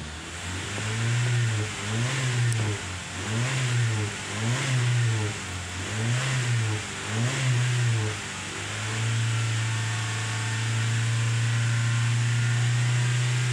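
A 2018 Honda HR-V's 1.8-litre four-cylinder petrol engine, in Park, heard from inside the cabin, is blipped up and down in a quick series of short revs, then held at a steady raised speed for about five seconds before it drops back near the end. It is a free-rev check that the engine runs.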